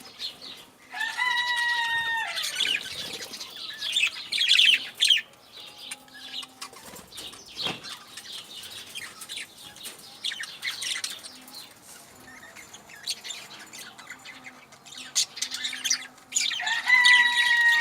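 Kept birds calling and flapping their wings: a long pitched call about a second in and another near the end, with a loud flurry of wingbeats or rapid chirps in between and scattered small chirps.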